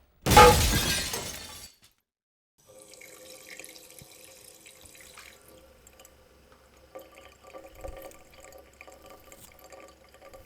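An object smashing: one sudden loud crash of breaking, glass-like and ringing, dying away over about a second and a half. After a short silence a faint steady background with a low hum follows.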